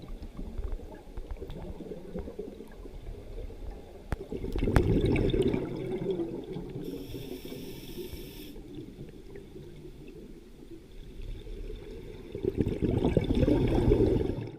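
Water sloshing and gurgling in a low, rough wash that swells twice, about a third of the way in and again near the end, then cuts off abruptly.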